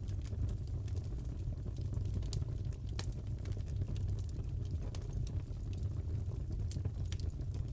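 Crackling fireplace: a steady low rumble of the fire with irregular sharp pops and snaps, several a second.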